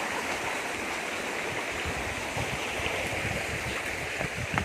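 Steady rushing of a forest river flowing over rocks, with a few soft low thuds.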